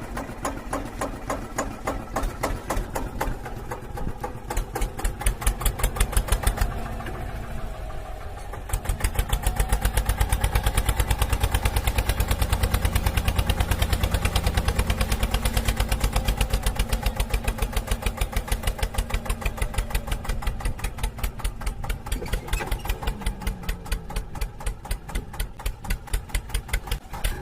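Diesel tractor engine running with a steady thumping beat of a few pulses a second. It grows louder and heavier for several seconds in the middle, then settles back.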